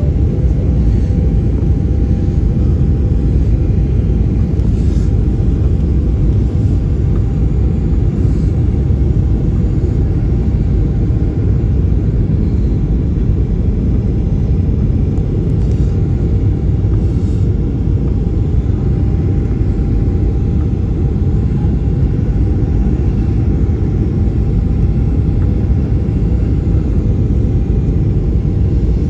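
Steady low rumble of a Boeing 737-800's engines and airflow heard inside the passenger cabin, with a faint steady hum on top.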